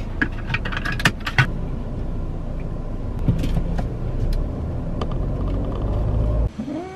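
Car engine running, heard from inside the cabin with the air conditioning on: a steady low rumble. A few sharp clicks and handling noises come in the first second and a half as the seatbelt is pulled across, and the rumble cuts off suddenly near the end.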